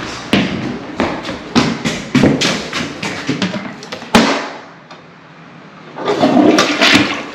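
A run of irregular knocks and thumps, about a dozen over four seconds, ending in one sharp crack. After a short lull, a rushing noise starts near the end.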